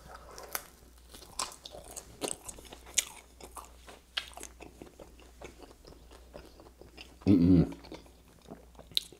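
Close-miked chewing of pizza crust: a steady run of small, crisp crunches and wet mouth clicks. A short burst of voice cuts in about seven seconds in.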